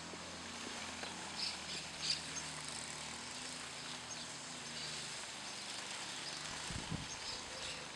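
Faint garden ambience: a steady hiss with a few short, high bird chirps about one and a half and two seconds in.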